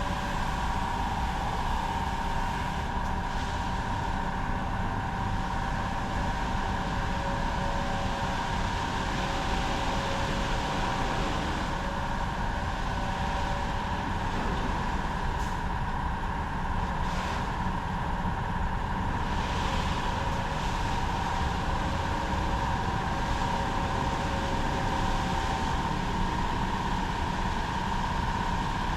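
Automatic car wash machinery running steadily: a constant motor hum and whine over an even hiss.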